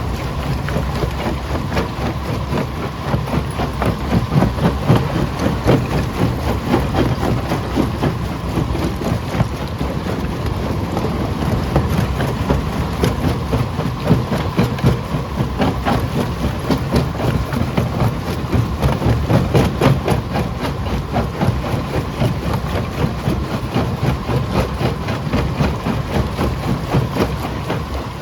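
Primary jaw crusher running under load: a steady heavy machine drone with continual irregular knocking and cracking of stone being crushed. The sound swells louder twice, about four to six seconds in and again near twenty seconds.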